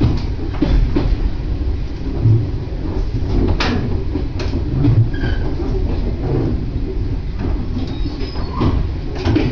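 Passenger train running, heard from inside the carriage: a steady low rumble of wheels on the track, with a few sharp clicks and knocks.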